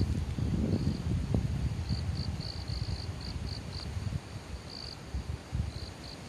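Crickets chirping in short 'ri-ri-ri' trills on one high pitch, coming in irregular clusters of several bursts a second. A low rumble sits underneath, stronger in the first couple of seconds.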